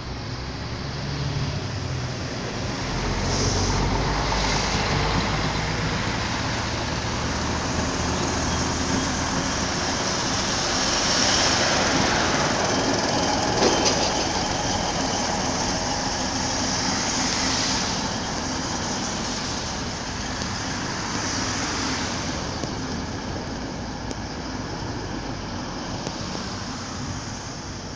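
A red DB Regio BR 612 diesel multiple unit moving through the station: a steady engine drone under the rumble and hiss of wheels on rail. The noise builds over the first few seconds and stays loud, with one sharp clank about 14 seconds in.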